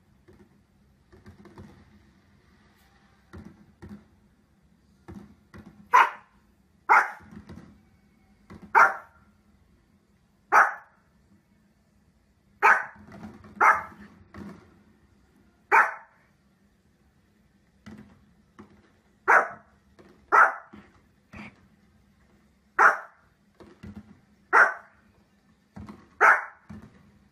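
A fluffy, cream-coloured dog barking again and again, single short sharp barks about one to two seconds apart, beginning about six seconds in.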